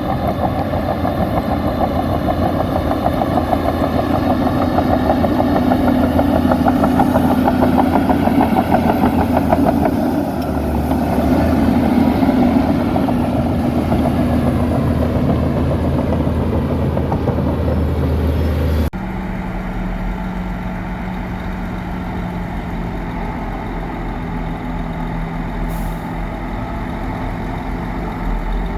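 Heavy diesel engine of earthmoving machinery running hard, its note shifting slightly. About two-thirds of the way in it cuts abruptly to a quieter, steadier engine sound.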